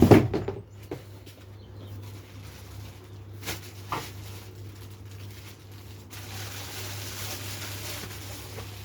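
Unboxing a power rack: cardboard packaging and parts being handled, with a loud clatter at the start, a few single knocks, then a steady rustling hiss from about six seconds in.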